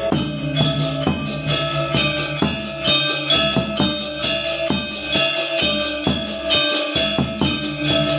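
Balinese gamelan gong ensemble playing: many bronze metallophones and gongs struck in a fast, even rhythm, with the ringing notes overlapping.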